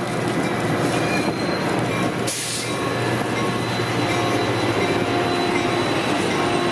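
Excursion train cars rolling past, a continuous rumble of wheels on rail with thin, steady wheel-squeal tones. A short hiss comes about two seconds in.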